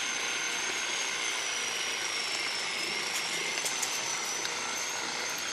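Leaf blower running steadily: an even rushing noise with a thin high whine that wavers slightly in pitch.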